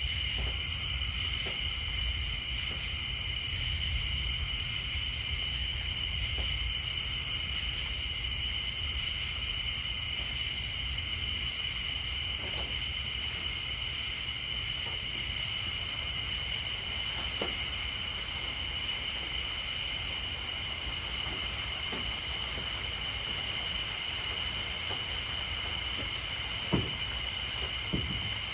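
Night chorus of insects and tree frogs: a steady high trilling, with a higher buzz swelling and fading about every two seconds, over a low steady rumble. A couple of sharp taps sound near the end.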